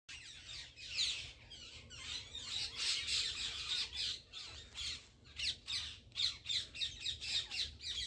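A flock of birds chirping and calling together: a dense, busy chorus of short, overlapping high calls that eases off briefly about midway.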